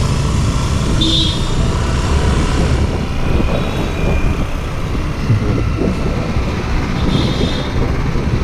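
Steady road traffic noise on a busy highway, with the engines and tyres of passing vehicles as a heavy rumble. Brief high-pitched squeals come about a second in and again about seven seconds in.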